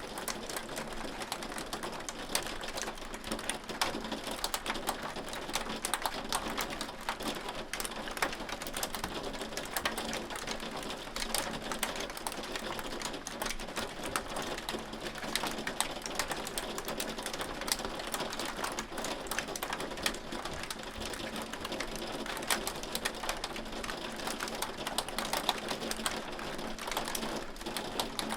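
Hail falling: a dense, steady clatter of countless small ticks and impacts.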